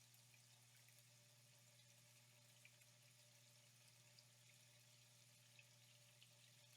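Faint flowing water, a steady soft wash with small droplet splashes ticking through it, over a low steady hum.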